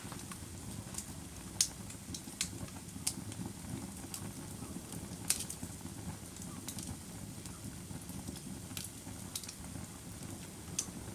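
Wood fire burning: a steady low rush of flames with irregular sharp crackles and pops, the loudest about one and a half and five seconds in.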